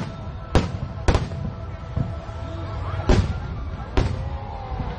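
Fireworks bursting: four sharp bangs at uneven intervals, two close together near the start and two more later.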